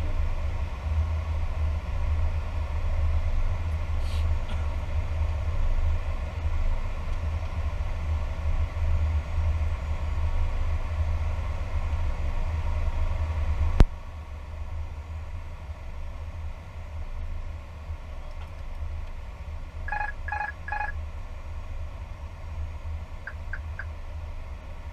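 Steady low rumble of an Airbus A320 flight deck in flight on approach. About halfway through there is a sharp click, after which the rumble drops suddenly in level. Near the end come four short, evenly spaced beeps.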